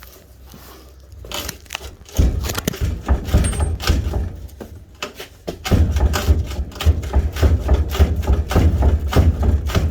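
A stubborn steel rear bumper on a Jeep Comanche being yanked and wrenched off its mounts, with rapid, repeated clunking, banging and rattling of metal and heavy thumping. It starts about two seconds in, pauses briefly around five seconds, then goes on.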